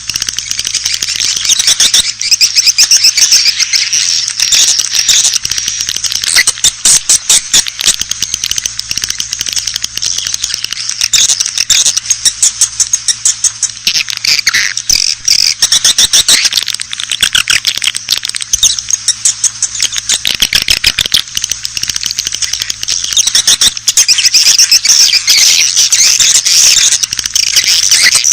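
Edible-nest swiftlet calls: a dense, continuous chatter of rapid clicking chirps from many birds. This is a lure call track, played to attract swiftlets into a nesting house.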